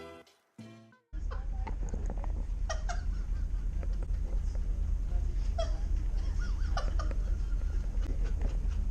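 A boat engine starts being heard about a second in, running steadily with a fast low pulsing rumble, with scattered short high-pitched chirps over it.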